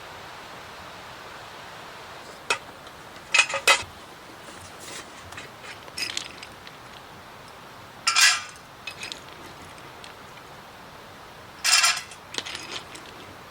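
Eating utensils clinking and scraping against dishes: several short, sharp clinks and two longer scrapes, over a steady faint hiss.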